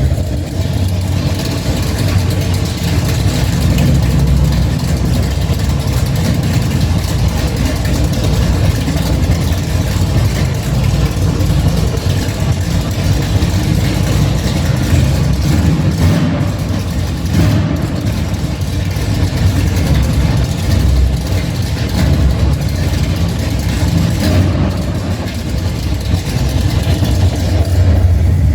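A car engine running, a steady heavy low rumble.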